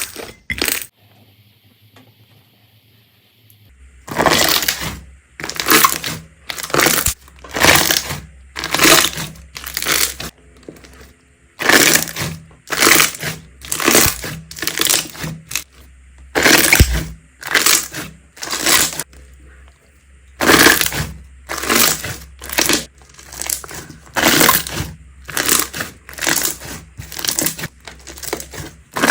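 Slime being squeezed and pressed by hand, giving short crackling squelches about once a second. They begin about four seconds in, after a quiet moment, over a faint low hum.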